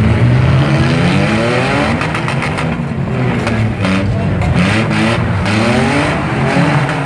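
Several demolition derby cars' engines revving hard at once, their pitch repeatedly rising and falling as the cars push and ram each other.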